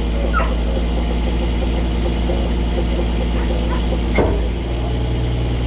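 Forage harvester's diesel engine running steadily with a deep, even drone. A single sharp knock sounds about four seconds in.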